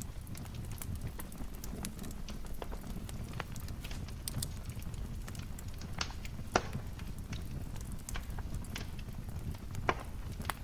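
Wood fire crackling over a steady low rumble of burning, with irregular small snaps and two louder pops, one past the middle and one near the end.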